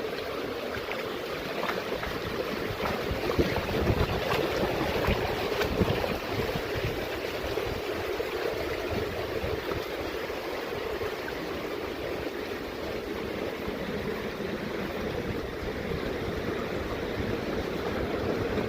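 Steady rush of a mountain stream running over rocks, with a few irregular low bumps, strongest in the first third.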